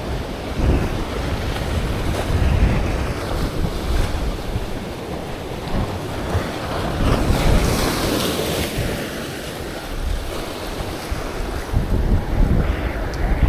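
Sea waves washing in against the shore with wind buffeting the microphone in a heavy, gusting rumble; a louder wash of surf swells about seven seconds in.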